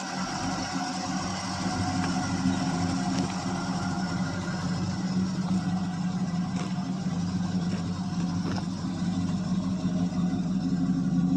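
A 1985 Chevrolet C10's 305 small-block V8 idling steadily once warmed up after a cold start, growing slightly louder near the end.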